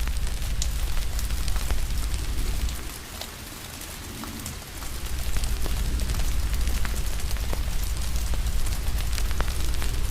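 Rain hiss mixed with a fire crackling, with frequent sharp pops throughout. A deep low rumble underneath drops away about three seconds in and comes back about two seconds later.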